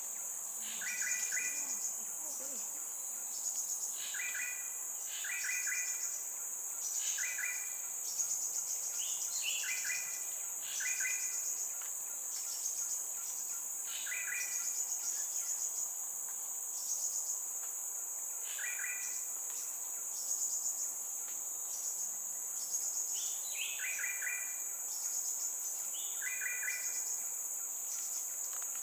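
Fledgling crimson sunbird calling: short calls of a few quick notes, repeated every second or two, with a pause of several seconds in the middle. Over a steady, high-pitched insect drone.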